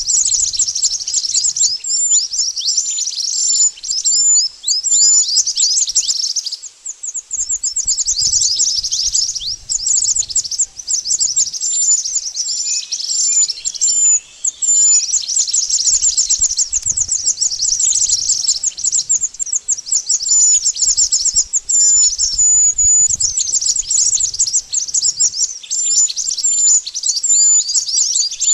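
Mantenan bird song used as a trapping lure: a fast, unbroken stream of high, thin chirps and quick downward-sweeping notes, with a short pause about seven seconds in.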